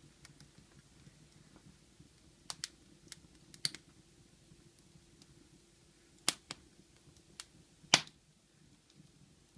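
Wood fire crackling in a fireplace: scattered sharp pops at irregular intervals, the loudest about eight seconds in, over a faint steady hum.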